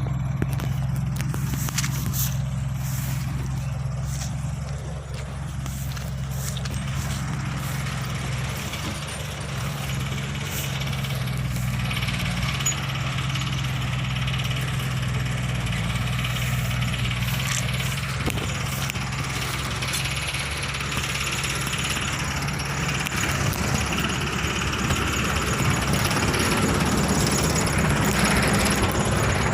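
Heavy equipment's engine running steadily with a low hum, with a few sharp clicks in the first few seconds and the sound growing slightly louder near the end.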